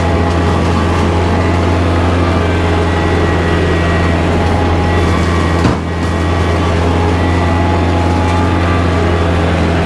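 Kubota tractor's diesel engine running steadily with the bush hog engaged, a loud even drone, with one brief knock a little over halfway through.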